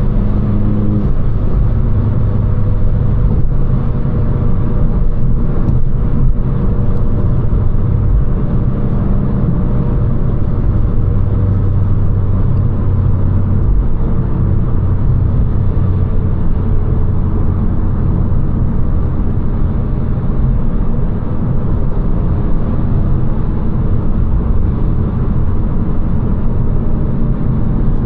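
Abarth 595 Competizione's turbocharged 1.4 T-Jet four-cylinder running at a fairly steady speed through its Record Monza exhaust: a low, even engine drone mixed with road and tyre noise, with only slight changes in pitch.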